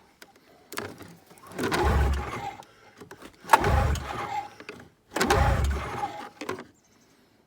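Yamaha Mountain Max snowmobile engine being cranked three times on a cold start, each attempt turning it over for about a second without it catching and running.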